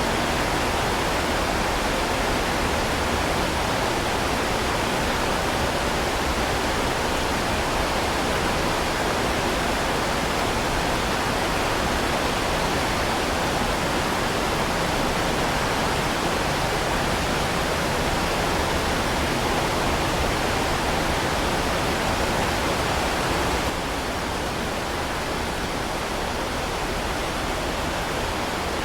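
Heavy rain falling in a steady, dense hiss. The level drops slightly about five seconds before the end.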